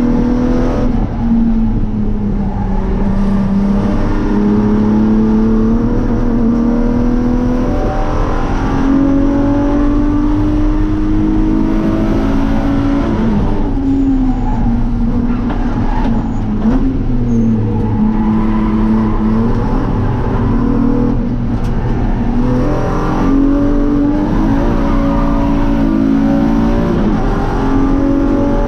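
BMW E36 M3's S50B30 straight-six with a straight-through race exhaust, heard from inside the cabin under hard track driving. The engine note climbs through each gear and drops at the shifts, with quick rises and falls through the braking and cornering sections.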